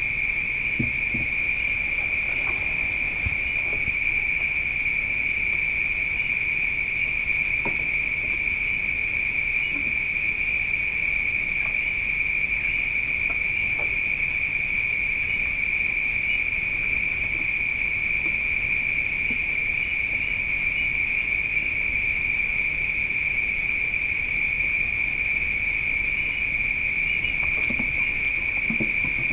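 Night insects, crickets, trilling without pause in two high, continuous pitches, one lower and one higher. A few faint knocks are scattered through it.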